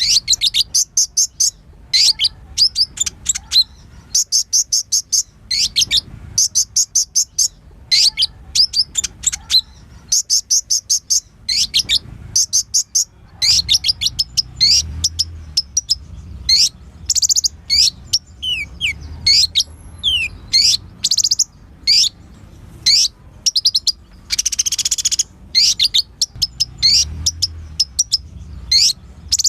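Kolibri ninja sunbird singing: rapid trains of short, high, sharp chirps in phrases of about a second, repeated over and over, with some single falling notes in between and a brief hissy burst near the end. It is a full-song 'pancingan' recording of the kind played to provoke other male sunbirds to sing.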